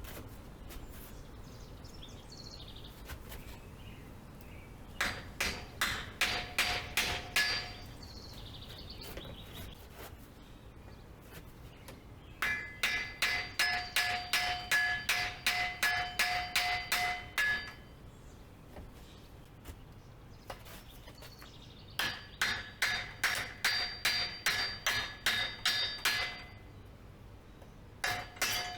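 Metal clicking or tapping on bicycle parts during disassembly: runs of quick, evenly spaced metallic clicks, about five a second, each with a ringing tone. There are three long runs with pauses between them and a short run near the end.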